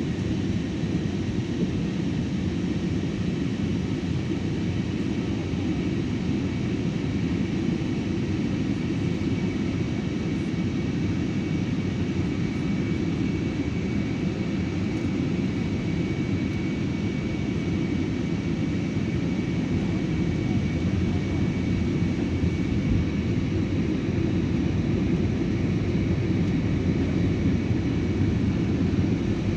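Steady roar of an airliner's cabin in flight, the low rumble of engines and rushing air with a faint high whine running through it.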